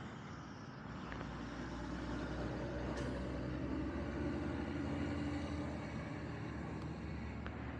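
A motor vehicle engine running, growing louder through the middle and easing off near the end.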